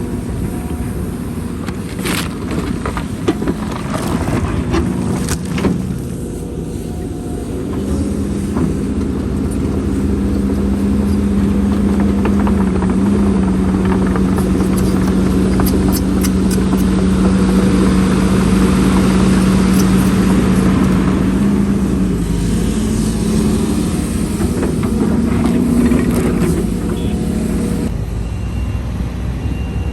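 Heavy diesel earthmoving machine working, with knocks and clatter in the first few seconds. About eight seconds in, the engine rises to a steady, loud note under load and holds it for about twenty seconds, then it drops back near the end.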